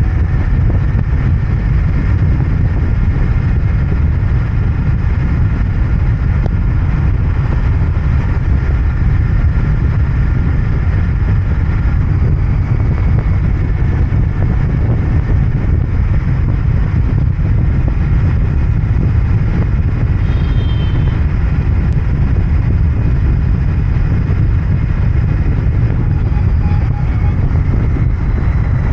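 Royal Enfield Interceptor 650's parallel-twin engine and exhaust running steadily under way, heard from the rider's seat, with wind and road noise.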